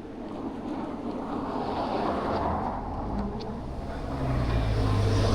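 Road traffic on a wet street: tyre hiss swells and fades as a vehicle passes, then a heavier vehicle's low engine hum builds near the end as it draws close.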